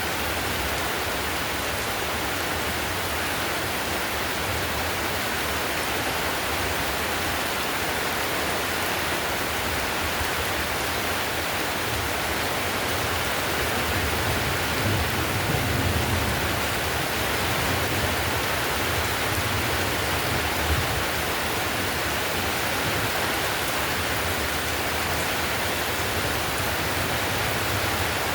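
Heavy rain falling steadily on clay roof tiles, a dense, even hiss. A deeper low rumble swells up around the middle.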